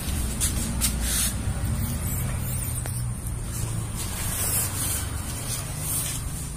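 Foam yoga mat being handled against the car door, giving several short hissing swishes over a steady low hum.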